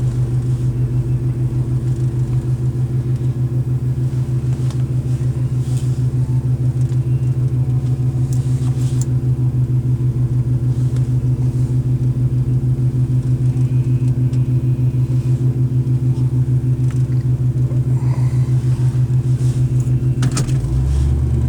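Pontiac 301 V8 in a 1978 Bonneville idling with an even, pulsing exhaust note. It is loud because the muffler is rotted almost completely off. Near the end the note changes and a deeper drone comes in.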